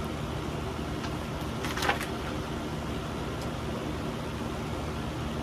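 Steady background hum, with a brief rustle about two seconds in.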